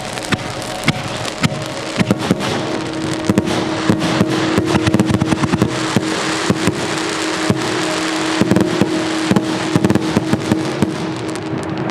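Aerial fireworks crackling: a dense, irregular rattle of sharp pops that thickens midway, over a steady held tone.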